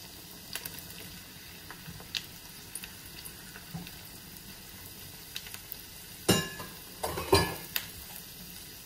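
Diced onions and sliced mushrooms sizzling in oil in a frying pan while being stirred with a silicone spatula, with scattered small crackles and a couple of louder knocks a little past halfway.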